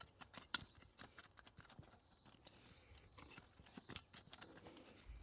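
Digging in soil for a post hole: scattered scrapes and sharp knocks of the tool in the earth, the loudest about half a second in and again near four seconds in.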